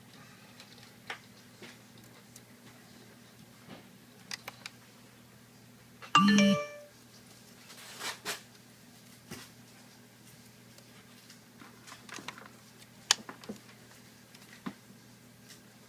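Scattered small clicks and taps of screws and small tools being handled on a laptop's case, with one brief, loud, chime-like tone about six seconds in.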